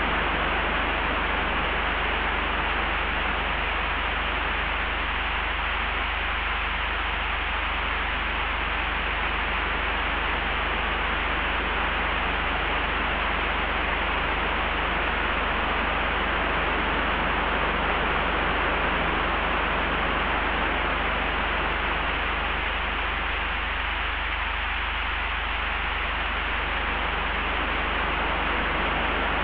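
Layered wind ambience: a steady, even hiss of wind with a constant low rumble beneath it.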